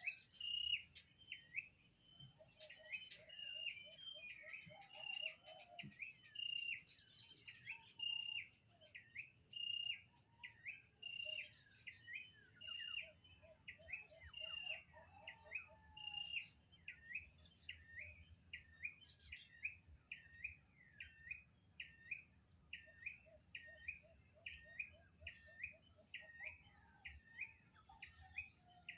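Birds calling: one repeats a short, sharp call about twice a second, with a few lower, faster trills from another bird now and then, over a steady high whine.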